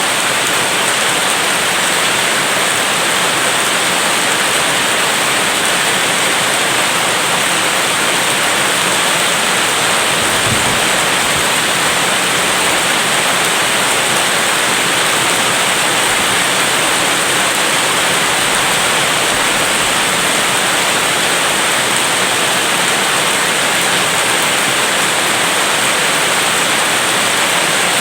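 Steady heavy rain, a loud even hiss that does not let up.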